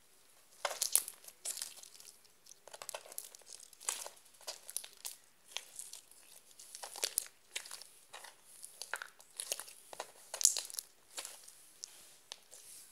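Peach slime mixed with beads being squeezed and worked by hand, giving a rapid, irregular run of crackles and crunches that starts about a second in.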